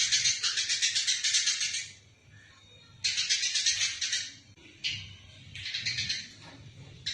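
Eurasian tree sparrows giving rapid, shrill chattering fighting calls in bursts of one to two seconds, with short pauses and a single brief chirp between bursts.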